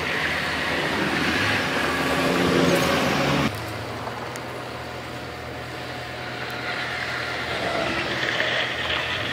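Diesel engines of heavy earthmoving machines running, louder for the first three seconds, then cutting off abruptly to a quieter engine sound that swells again near the end.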